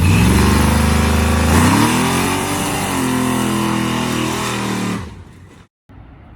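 Big-block V8 in a stripped drag car running loud. It is revved up about a second and a half in, holds, and dies away about five seconds in.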